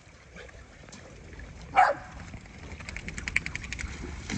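A dog barks once, a single sharp bark falling in pitch a little under two seconds in, followed about a second later by a rapid run of short high pulses, roughly a dozen a second, lasting about a second.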